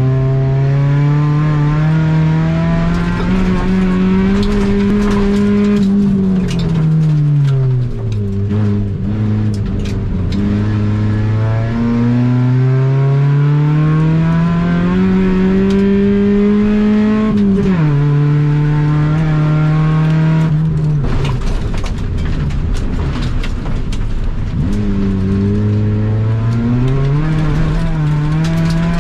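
Honda Civic EG4's four-cylinder engine heard from inside the cabin under racing load: revs climb steadily in each gear, fall away when the driver lifts and brakes, and drop sharply once at a gear change. Scattered clicks and rattles from the car run through the middle stretches.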